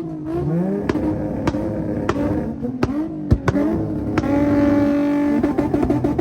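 A car engine revving several times, its pitch rising and falling, then held steady for about a second before breaking into a rapid stutter near the end.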